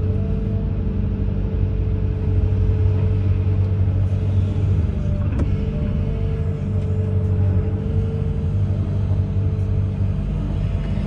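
Amphibious excavator's diesel engine running steadily with a low rumbling hum.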